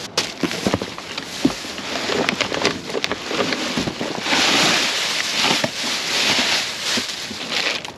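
Rummaging through packaged produce in a dumpster: plastic packaging rustling and crinkling with small knocks and clatters, and a steadier, louder rushing noise from about four seconds in.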